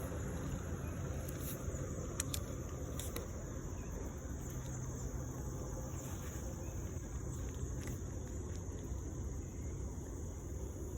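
Steady high-pitched insect chorus over a constant low rumble, with a few faint clicks.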